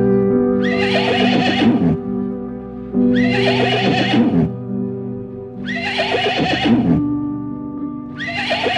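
A horse neighing four times, each whinny falling in pitch and lasting about a second, roughly every two and a half seconds, over background music with steady held notes.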